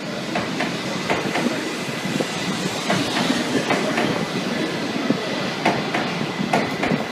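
Shinkansen train rolling slowly into the platform, its wheels clicking irregularly over the rail joints as it pulls in to stop.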